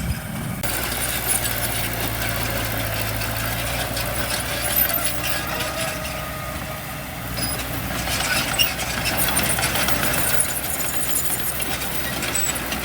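Heavy diesel engine of earthmoving equipment running steadily at low revs.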